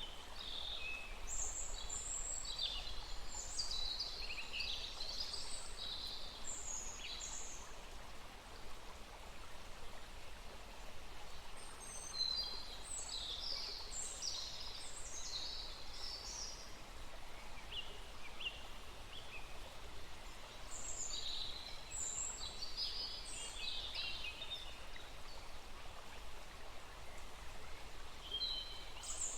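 A small forest stream runs with a steady rushing sound while songbirds sing high, quick chirping phrases in bouts every ten seconds or so.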